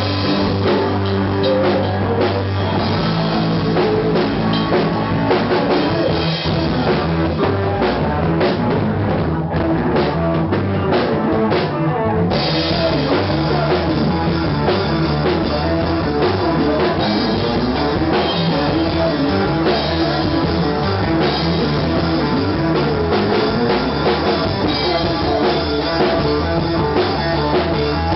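Rock band playing with drum kit and guitars, steady and loud; the cymbals come in fuller about twelve seconds in.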